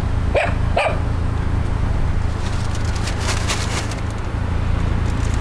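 A motor vehicle's engine runs steadily with a low hum. Two short rising squeaks come about half a second and a second in, and a quick run of clicks falls around three to four seconds in.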